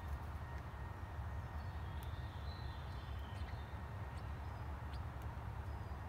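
A few faint, short songbird chirps, mostly in the middle, over a steady low rumble.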